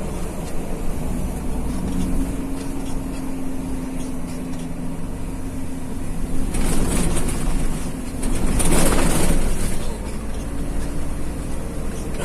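Vehicle engine and road noise while driving in heavy rain: a steady low engine hum, with two louder rushing hisses, the first about six and a half seconds in and a longer one about two seconds later.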